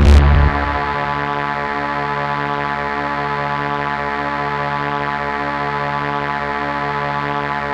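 A held, unchanging electronic drone chord from a synthesizer in the soundtrack music, following a louder musical passage that dies away about half a second in.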